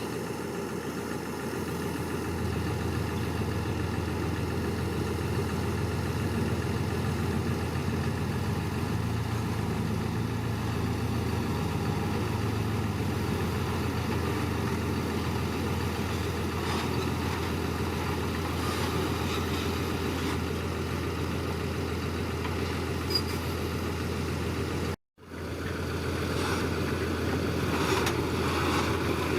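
Heavy earthmoving machine's diesel engine running steadily, with a brief dropout to silence at an edit near the end.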